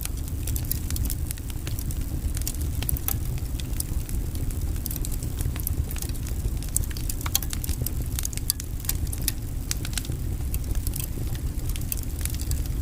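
Wood logs burning in a fireplace: a steady low rumble of the fire with frequent irregular sharp crackles and pops.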